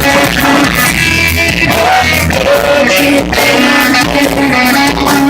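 Rock music with electric guitar, bass and a sustained sung or bent-note melody line, playing loudly and steadily.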